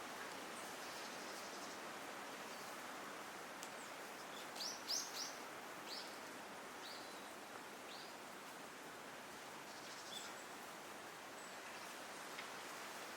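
A small wild bird giving short, high chirps: three in quick succession about four and a half seconds in, then single chirps over the next few seconds, over a steady background hiss.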